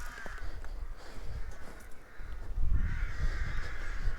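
Crows cawing, harsh calls that come and go at first and then run almost continuously from about two-thirds of the way through, overlapping. A low rumble joins at the same point.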